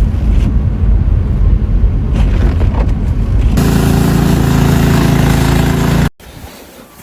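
Loud low rumble of a motor vehicle, changing about three and a half seconds in to a steady engine hum, then cut off abruptly about six seconds in.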